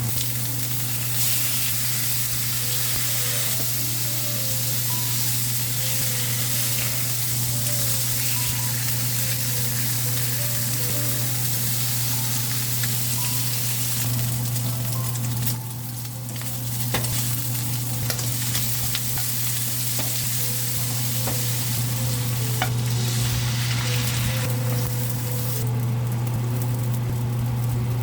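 Food sizzling as it fries in a pan, with a few sharp clicks of a utensil against the pan about halfway through. A steady low hum runs underneath, and the sizzle briefly softens about halfway before it picks up again.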